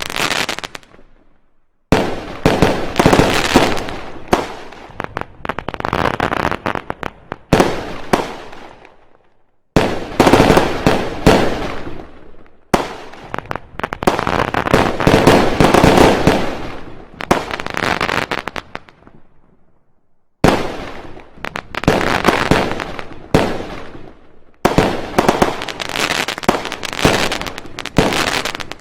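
Fireworks: dense, rapid volleys of sharp bangs and cracks, each volley starting suddenly and trailing off, broken by abrupt silent gaps four times.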